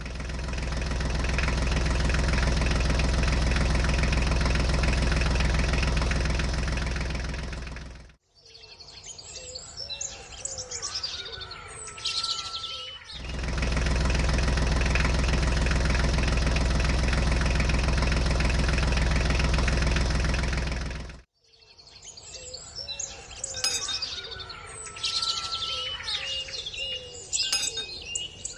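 A tractor engine running steadily for about eight seconds, stopping, then running again for about eight seconds and cutting off suddenly. Birds chirp in the gaps between the two runs and after the second.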